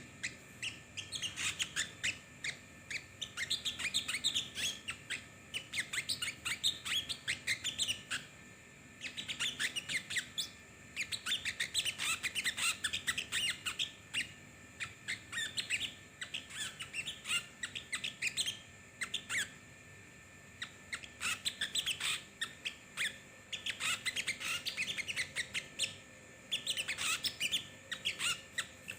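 Small songbirds, sogon, chattering in rapid runs of high, quick chirps. The runs come in bursts of several seconds, with short pauses between them.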